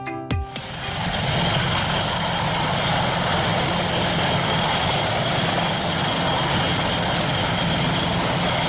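Steady aircraft engine noise, a continuous whooshing run with a fast low flutter and a faint high whine, after a brief snatch of music at the very start.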